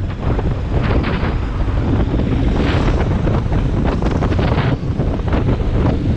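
Strong wind buffeting the microphone: a loud, constant low rumble with irregular crackling gusts.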